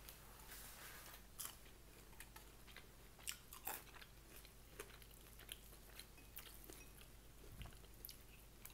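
Faint chewing and mouth sounds of a person eating, with scattered soft clicks and smacks at irregular intervals.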